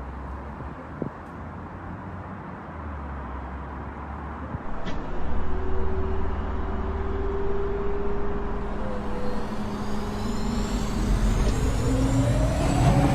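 A motor vehicle running and growing louder, with a pitch that rises near the end as it speeds up or comes closer.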